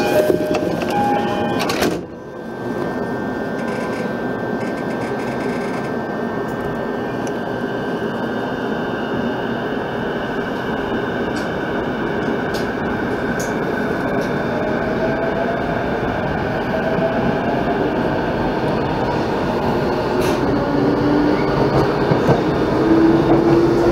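Saikyo Line electric commuter train running, a steady rumble. Rising electric motor whines come in during the second half and the sound grows louder toward the end as another Saikyo Line train passes close by.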